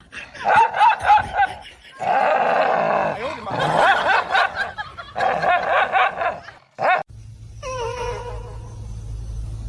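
Pet animal vocalising in a few short cut-together clips, with wavering pitched calls and people laughing.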